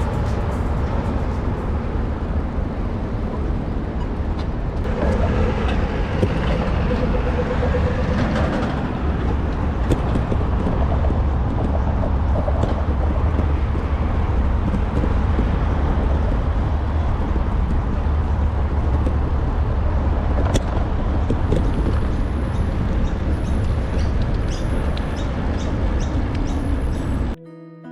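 Road traffic noise heard from a moving bicycle, with a heavy low rumble of wind on the action camera's microphone; it cuts off abruptly near the end.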